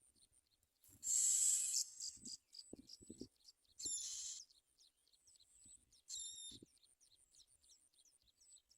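Bar-winged prinia calling at the nest: three harsh, buzzy calls about two and a half seconds apart, the loudest about a second in, with a run of quick, thin chirps, about four a second, between them. A steady high insect whine runs underneath.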